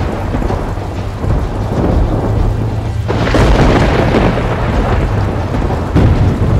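Thunder rumbling over heavy rain, swelling again suddenly about three seconds in, with a sharp thunderclap crack near the end.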